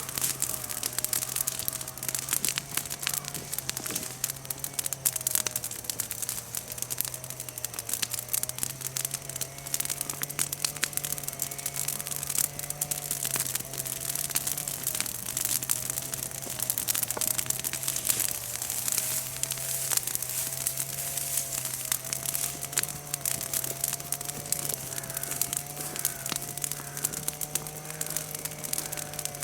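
Bonfire of freshly broken chestnut-tree leaves and twigs crackling, with rapid irregular snaps and pops throughout. A steady, slowly wavering low hum runs underneath.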